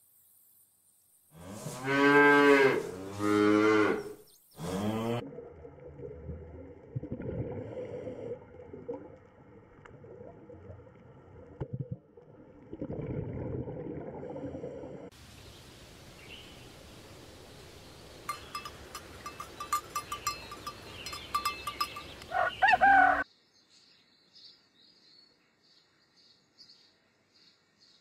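Holstein-Friesian dairy cow mooing three times, one long moo then two shorter ones. After that comes a long stretch of noisy hiss with rapid clicking, a short loud call near the end, and faint high chirping at the very end.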